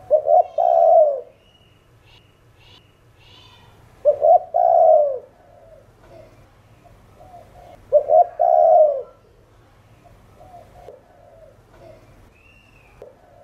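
Spotted dove cooing in the 'thổ đồng' style: three loud phrases about four seconds apart, each two short notes followed by a longer drawn-out coo. Fainter cooing sounds between the phrases, with a few faint high chirps.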